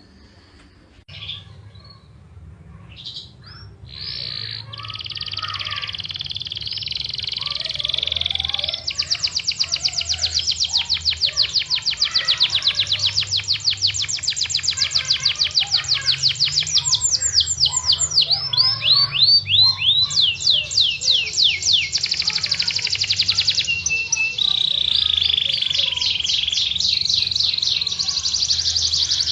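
Domestic canary singing a long, continuous song of fast high trills and runs of rapidly repeated notes, starting softly and building in a few seconds in. A faint low hum runs underneath.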